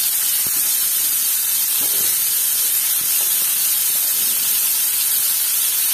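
Spine gourd slices shallow-frying in hot mustard oil in a pan, a steady sizzle as more slices are laid into the oil one by one.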